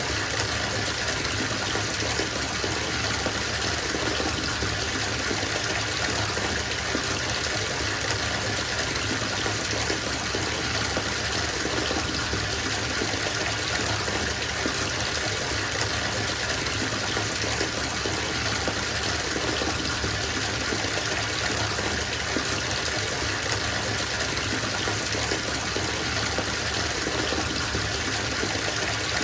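Bathtub filling from the tap: a steady gush of water pouring into the tub.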